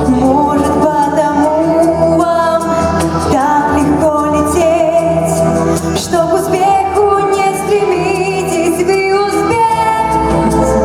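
A female vocalist singing a Russian pop song over instrumental accompaniment, her held notes wavering with vibrato.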